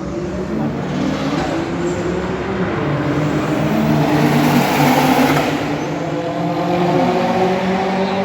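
Racing cars running on a circuit, their engine notes rising and falling. One car passes close about five seconds in, loudest there, then its engine note drops away.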